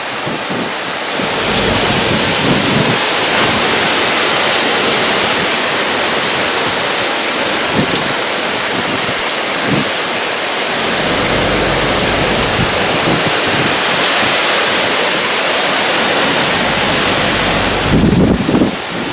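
Tropical-storm wind and heavy rain: a dense, steady hiss that swells and eases in gusts, with a low rumble through the second half and a harder gust buffeting the microphone near the end.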